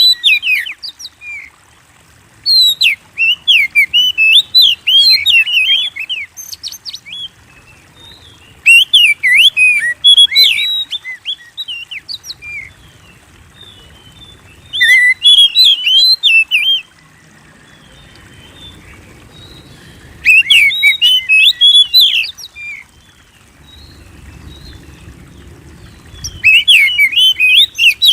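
Oriental magpie-robin (kacer) singing loud phrases of rapid, varied whistles and chirps, each two to three seconds long, with a pause of a few seconds between phrases.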